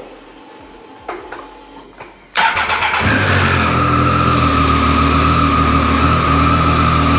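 Triumph Street Triple 765's inline three-cylinder engine starting. After a faint click, it fires suddenly about two seconds in, catches at once and settles into a steady idle.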